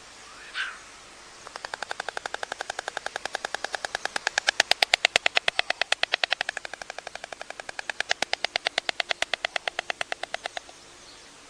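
White stork clattering its bill at the nest: a rapid run of sharp wooden clacks, about ten a second, starting about a second and a half in, loudest in the middle, easing and swelling again before it stops near the end.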